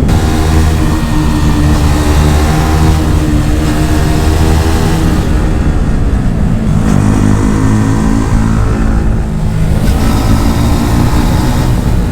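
Yamaha R15 V4's single-cylinder engine through an aftermarket Akrapovic exhaust, running hard on the move. The engine note sags near the middle, jumps to a new pitch about seven seconds in, then holds steady.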